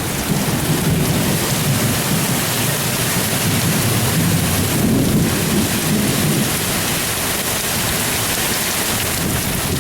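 Heavy monsoon downpour: a steady hiss of very hard rain.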